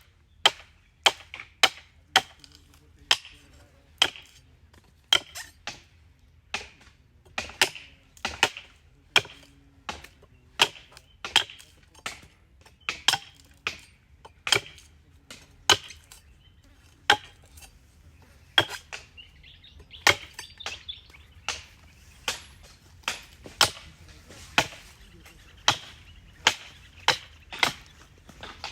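A sharp hand blade chopping into the dry, woody frond bases on a date palm trunk, skinning the tree: crisp single strikes at roughly one a second, now and then two in quick succession.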